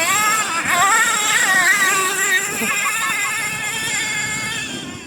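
Thunder Tiger S28 nitro engine in an MTA4 RC monster truck, revving up and held at high revs with a wavering pitch, then backing off near the end.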